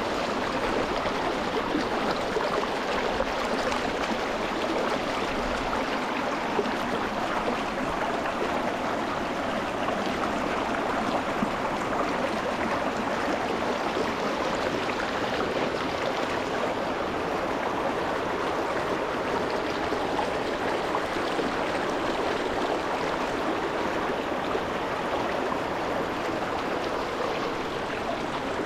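Shallow rocky mountain stream flowing and burbling over stones, heard close to the water as a steady rush.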